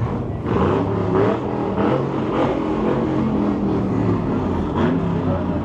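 Car engine revving through its exhaust in a series of short rev blips, the pitch rising and falling with each one.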